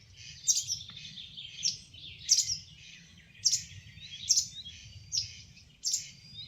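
Songbirds chirping, with short, sharp notes repeating about once or twice a second, over a faint low rumble.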